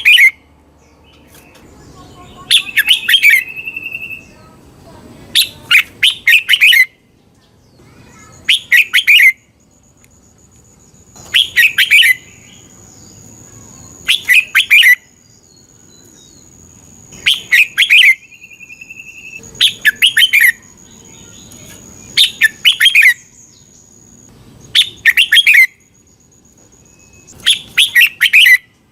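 Red-whiskered bulbul singing: loud whistled phrases about a second long, repeated every two to three seconds, a couple of them ending in a short held note. A faint, steady high-pitched tone sounds in the background through the middle.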